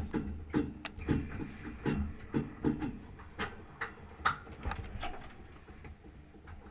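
Washing machine running: a low, steady rumble with irregular knocks and clicks, a few each second, growing fainter toward the end.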